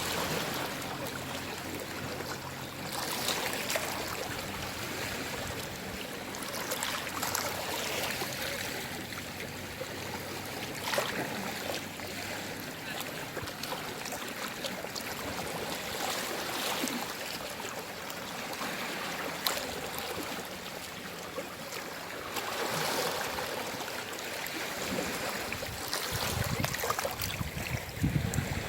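Gentle sea waves washing and lapping on the shore, surging and easing every few seconds, with a deeper rumble near the end.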